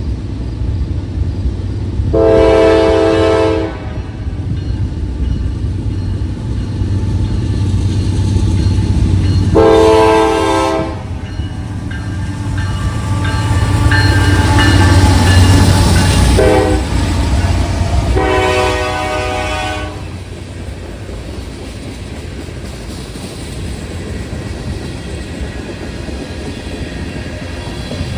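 Diesel locomotive's multi-chime air horn sounding the grade-crossing signal, long, long, short, long, over a low engine rumble that swells as it passes. In the last third the horn stops and the train's cars roll by with wheels clacking over the rail joints.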